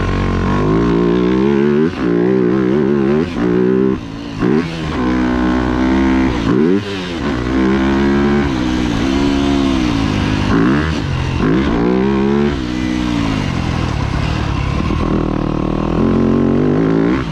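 Yamaha YZ250F four-stroke single-cylinder motocross engine being ridden hard. It revs up and drops back over and over, the pitch climbing and falling every second or two, with short throttle chops.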